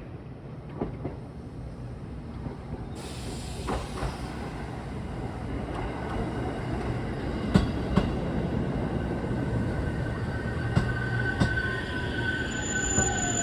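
Electric train pulling into a station: its running sound grows steadily louder, with scattered sharp clicks from the wheels over the rails. Over the last few seconds the brakes squeal, one high steady squeal and a second one falling in pitch as it slows.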